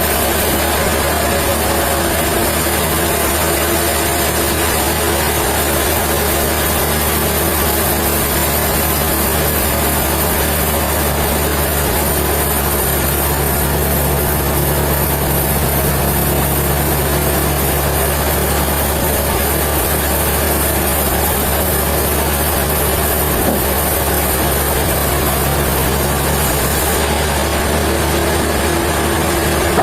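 Sawmill machinery running steadily: a deep, heavy engine hum under a dense mechanical noise that stays even throughout.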